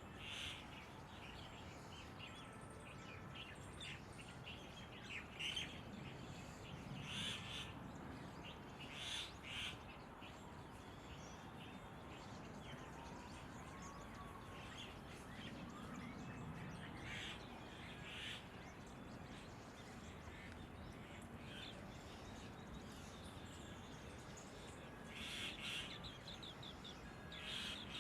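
Short bird calls now and then, a few seconds apart, over a faint steady background hiss.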